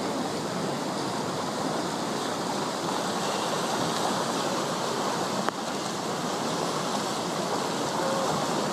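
Floodwater rushing down a river channel: a steady, dense rushing noise, with one short click about five and a half seconds in.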